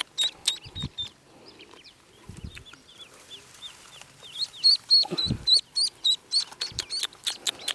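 Ducklings peeping: a stream of short, high peeps, sparse and soft a couple of seconds in, then many loud peeps close together in the second half. A few brief low thumps sound among them.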